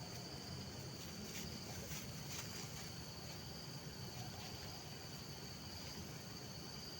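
Forest ambience: insects keep up a steady high-pitched drone over a low rumble, with a few faint clicks in the first few seconds.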